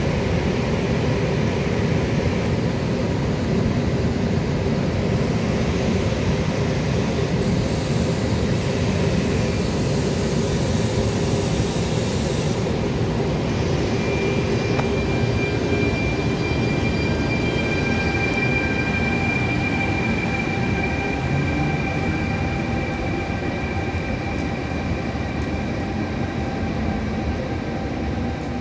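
Trenitalia regional electric train pulling out: a continuous low rumble, with a high steady whine that comes in about halfway and fades out several seconds later.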